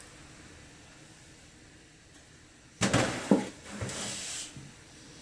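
Quiet, then about halfway a couple of sharp knocks followed by a hissing breath through the mouth, from a person breathing against the burn of a freshly bitten jalapeño.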